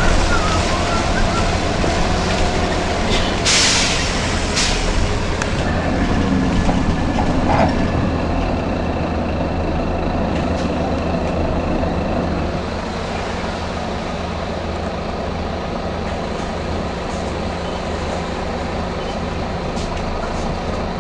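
Volvo B9TL bus's diesel engine running steadily, with two short bursts of compressed-air hiss from its air system about three and a half and four and a half seconds in. The engine noise drops a little about twelve seconds in.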